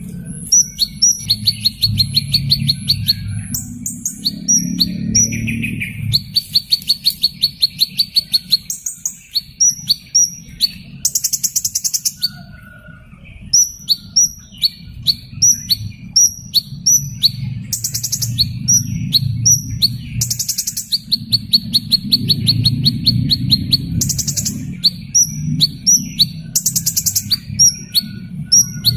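Hummingbird chirping: sharp, high downward chirps repeated in quick series, alternating with fast buzzy trills, over a steady low rumble.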